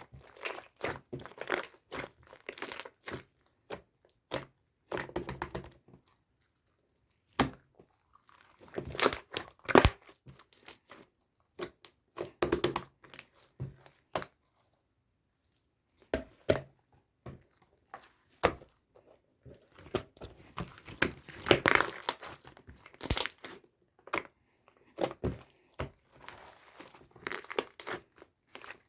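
Slime being squished, stretched and poked by hand, giving irregular crackling, crinkling pops in clusters, with a couple of short pauses.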